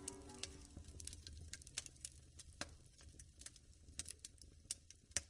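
Firewood crackling in a wood-burning fireplace: faint, irregular snaps and pops, with one louder pop near the end.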